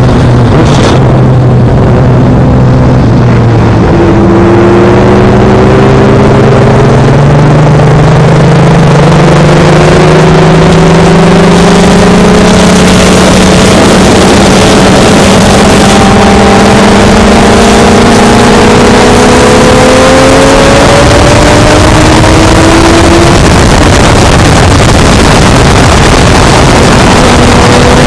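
Loud motorcycle ride with heavy wind rush on the microphone: a Honda CBR600F's inline-four engine under way, its pitch climbing slowly and steadily for most of the stretch as the bike gathers speed, with other engine tones overlapping it.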